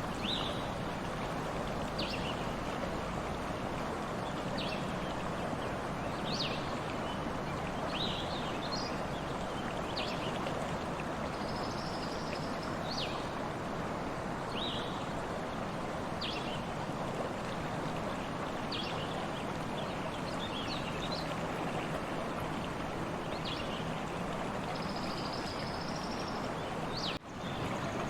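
Steady rush of a flowing stream, with short high bird chirps every second or two and twice a longer high trill. There is a brief dropout in the sound near the end.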